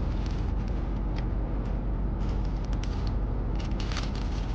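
Steady low rumble of a car heard from inside the cabin, with short crackles and crunches scattered through it as a hash brown is unwrapped and bitten into.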